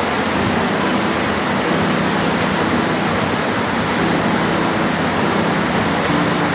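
Steady, dense rain falling, an even hiss with no breaks. Faint low tones come and go underneath.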